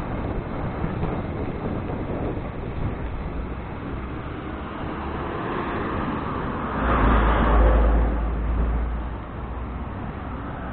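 Steady wind and road noise while riding along a road. About seven seconds in, a louder low rumble swells for around two seconds and then fades, as of a motor vehicle passing close by.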